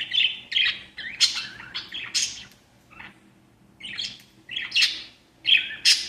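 Small pet parrots (lovebirds and parakeets) chirping and squawking in quick, harsh bursts, with a short pause about halfway through.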